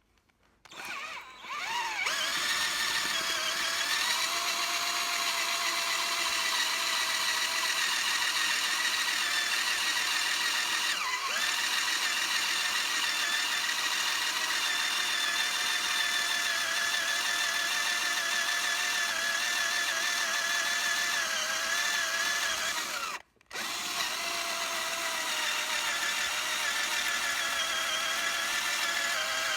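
Electric drill running with a larger bit, boring into a wire wheel's center after a pilot hole, with a steady whine. It stops briefly about 23 seconds in and starts again.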